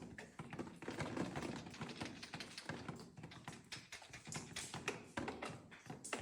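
A fast, irregular run of small clicks and taps, like hard objects being handled and knocked together, over a low rumble.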